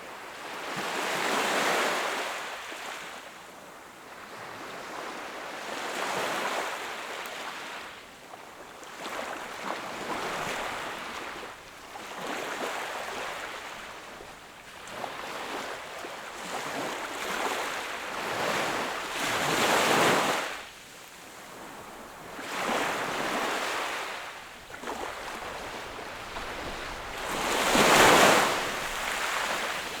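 Sea waves breaking and washing up on the shore, each swelling and fading over a couple of seconds, one after another at uneven intervals; the loudest wave comes near the end.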